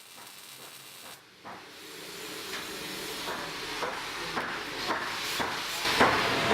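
Welding arc hissing with irregular crackles, quiet at first and growing steadily louder.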